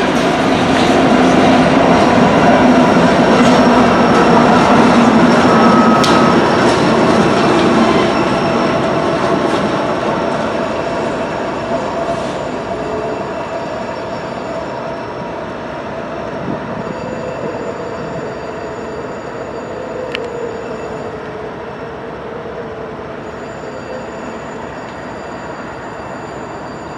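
Norfolk Southern coal train's cars rolling slowly past on the rails, a steady rumble of wheels that grows fainter from about a third of the way in. Thin, high wheel squeals come and go over it as it moves away.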